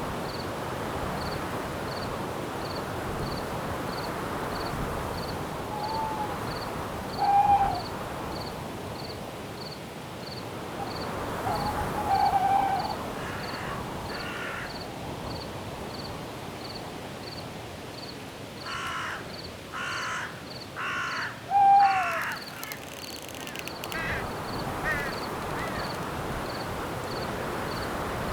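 Night forest ambience: a steady rush of wind, an insect chirping evenly about three times every two seconds, and birds calling: a few short clear calls, the loudest about a quarter and three quarters of the way in, and a run of four harsh crow-like caws near the end.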